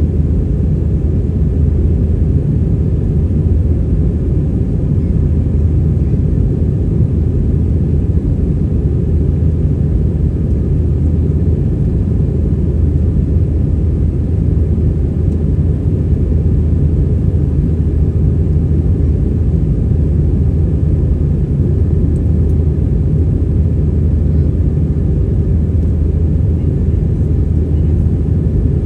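Airbus A320 cabin noise: a steady, loud, low rumble of jet engines and airflow heard from inside the passenger cabin.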